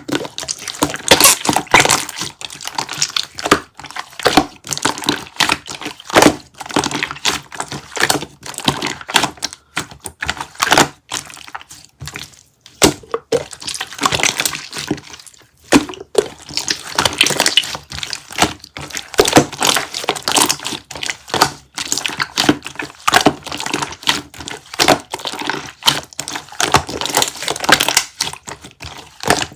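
Melon jelly being handled close to the microphone: a dense, irregular run of crackling, snapping and small clicks, coming in surges with a couple of short pauses.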